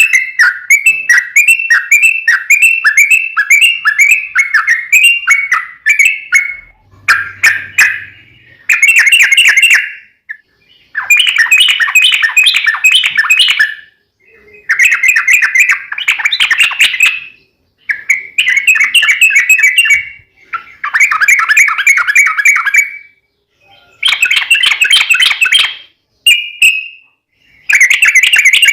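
Yellow-vented bulbul in full song: at first a run of quick, repeated bubbly notes, then chattering phrases two to three seconds long, repeated with short pauses.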